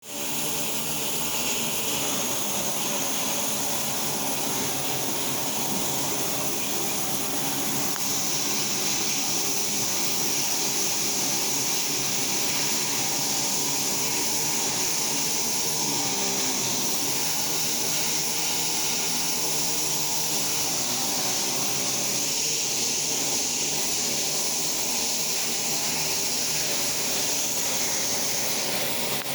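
2011 International MaxxForce 13 12.4-litre diesel engine running at a steady idle on a test run, with a steady high hiss over the engine note.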